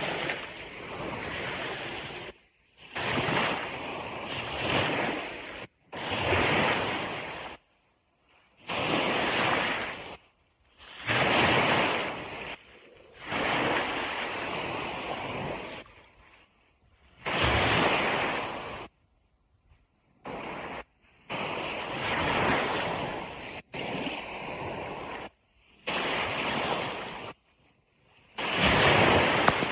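Ocean surf: waves washing in one surge after another, each lasting a second or two and cutting off suddenly into brief silences.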